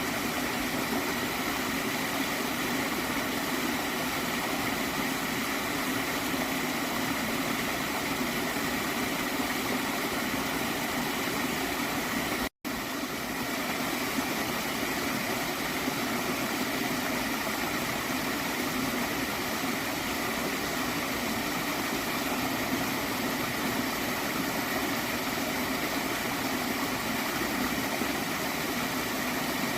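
Water stream flowing and gurgling, steady throughout, with a momentary dropout to silence about twelve seconds in.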